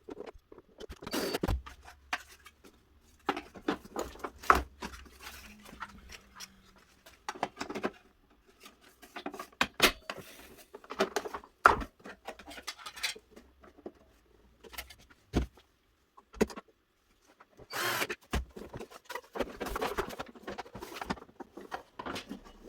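Parts of a Miele S711 vacuum cleaner being handled and fitted back together: irregular clicks, knocks and rustling, with short pauses.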